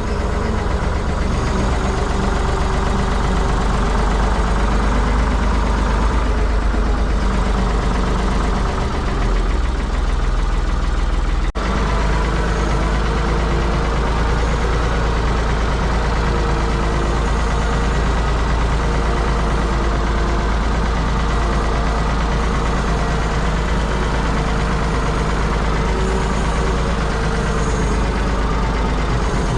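Ford 555 backhoe loader's engine running steadily under way, with one very short break about eleven seconds in.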